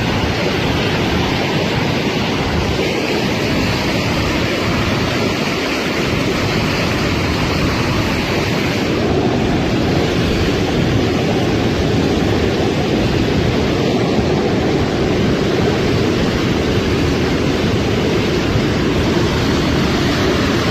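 Steady, loud rushing of a flash-flood torrent.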